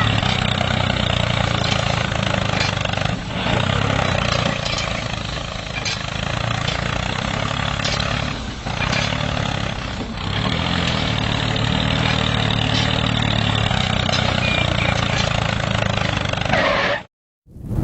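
Homemade mini tractor's motor running steadily, then cutting off abruptly near the end.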